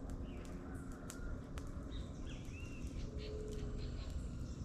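Birds giving a few short, high calls, one a curving whistle about two and a half seconds in, over a steady low rushing noise with scattered faint clicks.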